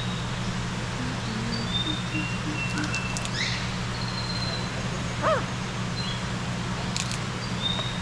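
Birds calling with short, high whistled notes over a steady low hum, with one short call rising and falling in pitch about five seconds in. Two sharp clicks come about three and seven seconds in.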